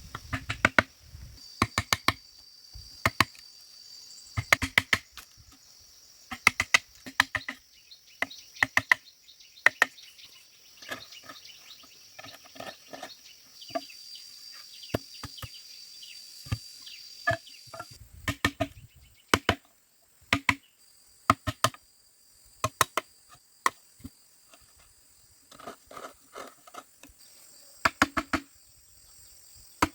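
Bamboo being chopped with a blade: sharp strikes in quick clusters of two to four, again and again. Insects buzz steadily in the background.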